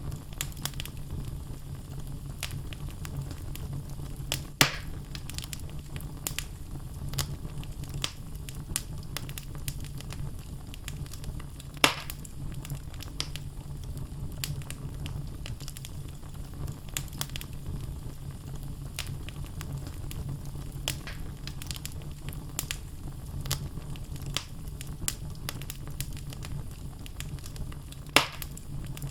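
Wood fire burning in a fireplace: logs crackling with frequent small snaps over a steady low rumble of flame. Three louder pops stand out: a few seconds in, near the middle, and near the end.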